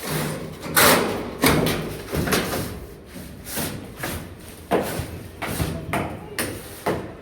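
Irregular knocks, bumps and scrapes of hand work on a window air conditioner unit and its fitting, about a dozen over several seconds.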